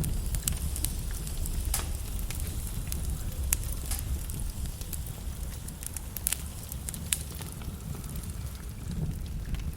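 Logs burning in a fireplace, crackling: irregular sharp pops and snaps over a steady low rumble of the flames.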